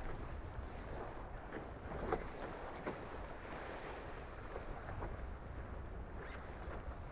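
Wind buffeting the microphone over water rushing past the hulls of a Tornado racing catamaran under sail, with a few brief sharper hits.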